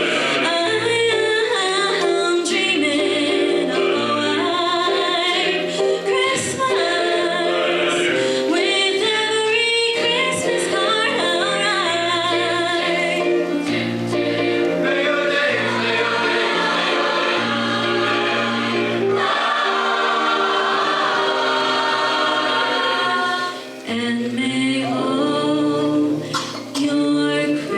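High school choir singing a Christmas piece, several voices in harmony holding sustained notes over a low line, with a short break between phrases near the end.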